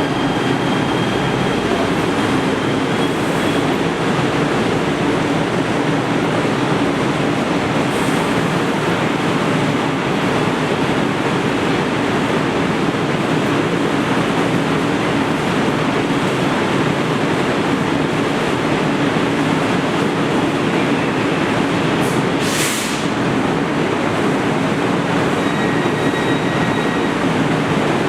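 Metro rail train running steadily: an even, unbroken rumble of wheels on rail with a low hum, and a brief hiss about three-quarters of the way through.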